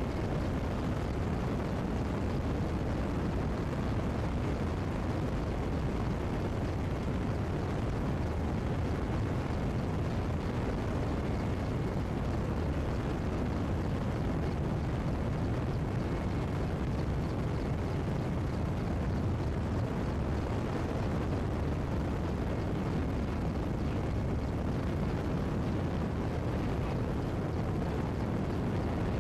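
Mi-8 helicopter's twin turboshaft engines and rotor running: a steady heavy drone with a faint high whine.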